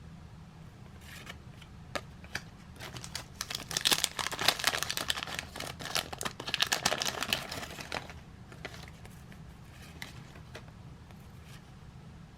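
The wax-paper wrapper of a trading card pack crinkling as it is handled and opened. It is densest and loudest from about three to eight seconds in, with scattered crackles before and after.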